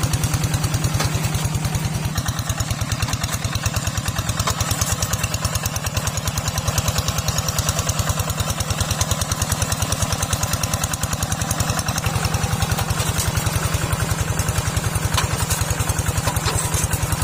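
Small tractor's engine running steadily with an even, rapid pulsing beat.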